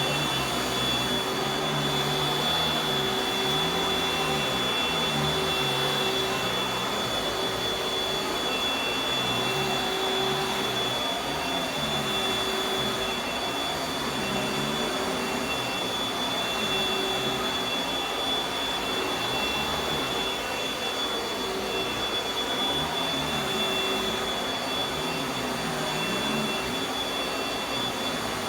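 Panasonic Jet-Flow upright vacuum cleaner running steadily: a dense rushing motor and airflow noise with a steady high whine, and a low hum that wavers up and down in pitch about every two seconds.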